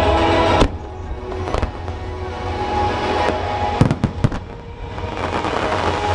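Fireworks bursting overhead: a sharp bang about half a second in, single bangs around a second and a half and three seconds in, then a quick cluster of several bangs around four seconds in, over music playing throughout.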